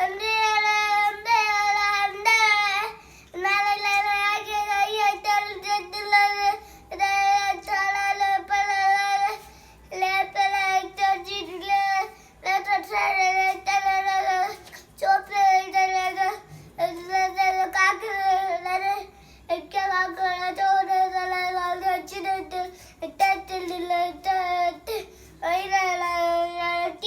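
A child singing solo and unaccompanied, a high voice carrying a melody in short phrases of one to three seconds with brief pauses between them.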